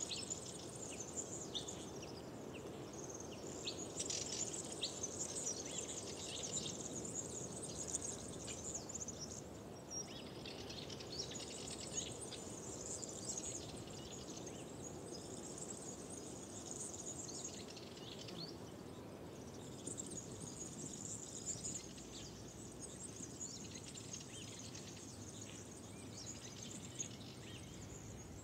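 Several songbirds singing together in spells of rapid high chirps and trills, over a steady low rushing background.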